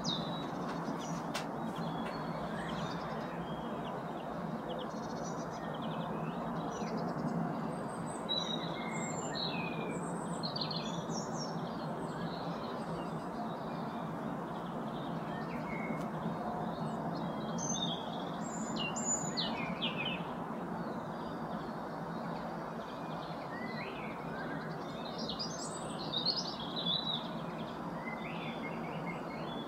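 Small songbirds chirping and twittering in scattered short bursts, thickest about a third of the way in, again past the middle and near the end, over steady background noise.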